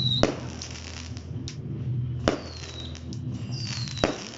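Fireworks going off: three sharp bangs about two seconds apart, with whistling tones that fall in pitch between them.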